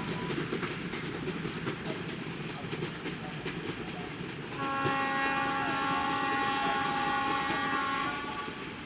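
Diesel-hauled passenger train running along the line with a steady rumble and wheel clatter. About halfway through, the locomotive's multi-tone air horn gives one long blast lasting about three and a half seconds.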